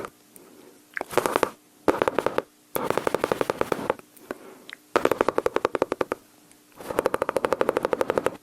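Mouth-made imitation of machine-gun fire close to the microphone: runs of rapid clicking pops, five bursts of roughly half a second to a second and a half with short pauses between.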